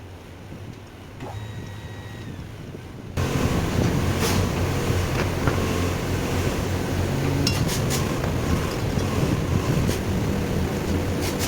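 A steady mechanical running noise with a low hum, which comes in suddenly about three seconds in after a quieter stretch, with a few faint ticks over it.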